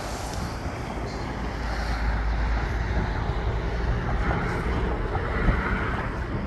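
Snowstorm wind blowing across the microphone: a steady rushing noise with a heavy low rumble that swells a little in the middle.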